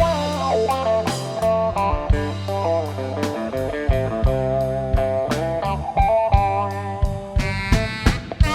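Live band's instrumental break: a lead electric guitar plays a blues solo with bending notes over bass and drums.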